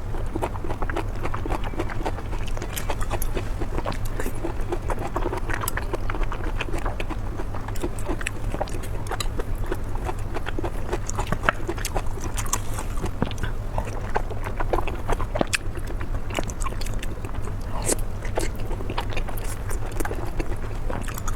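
Close-miked mukbang eating: chewing and biting food, many irregular wet smacks and clicks, over a steady low hum.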